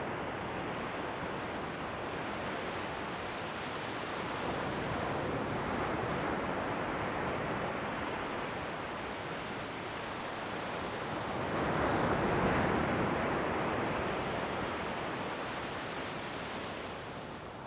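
Ocean waves breaking and washing on the shore in a steady rush, swelling and fading slowly; the largest wave peaks about twelve seconds in.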